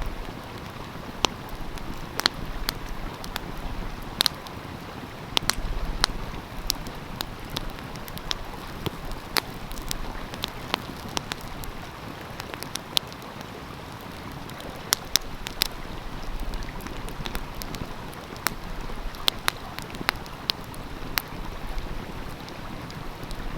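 Wood fire crackling, with irregular sharp pops scattered through, over the steady rush of a flowing stream.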